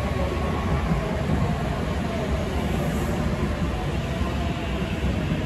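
N700A Shinkansen train running past on the station track: a steady, low rumble of wheels and running gear on the rails.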